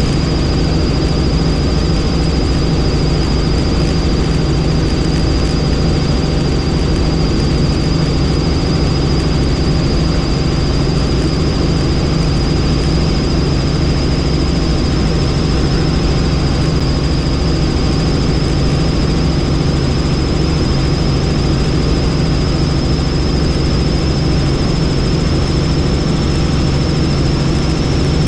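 Helicopter in flight: steady rotor and engine noise with a high turbine whine that creeps slightly upward in pitch.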